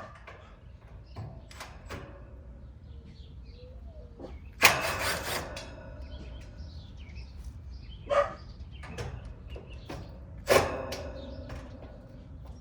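Sheet-metal housing of an outdoor AC condenser unit being taken apart: three sharp metallic knocks with a short ring, about five, eight and ten and a half seconds in, among lighter clicks and handling noise.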